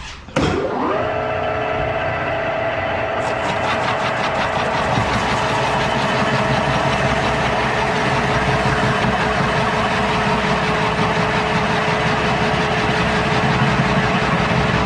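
A power machine used to hollow out a log starts abruptly; its motor spins up fast to a steady whine and then runs on steadily. From about three seconds in, a fast even rattle runs on top of the motor.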